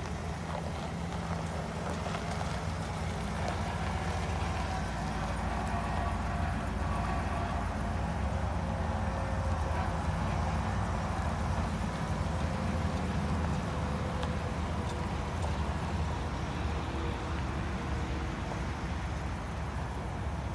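Chevrolet 3500 service truck engine idling steadily, with one short knock about six seconds in.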